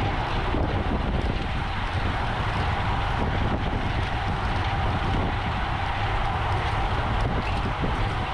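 Steady wind rushing over a camera microphone on a moving bicycle, with road and tyre noise underneath.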